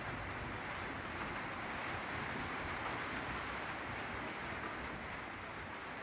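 Steady hiss of rain falling, heard from inside a timber-slab hut.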